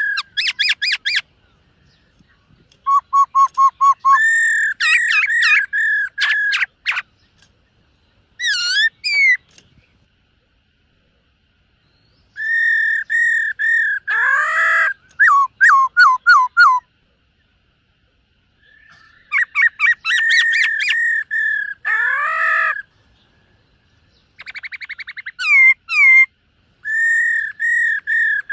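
Black-throated laughingthrush singing: loud whistled phrases of quickly repeated notes, rapid trills and sweeping up-and-down glides, broken by pauses of one to two seconds.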